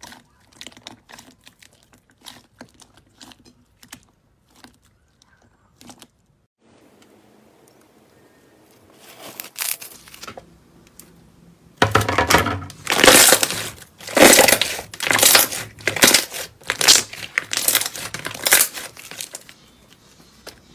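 Slime being pressed and squeezed by hand: faint crackles and clicks at first, then, a little past halfway, a series of loud crunchy squishes about one a second.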